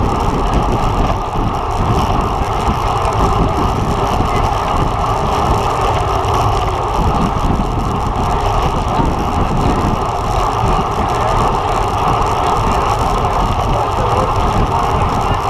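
Steady rush of wind and road noise from riding a road bike at race speed, with no breaks or separate events.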